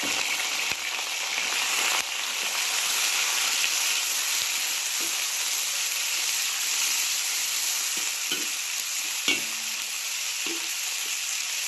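Pork stir-frying in hot camellia oil in a pan: a steady, even sizzle, with a few light knocks of the spatula against the pan in the second half.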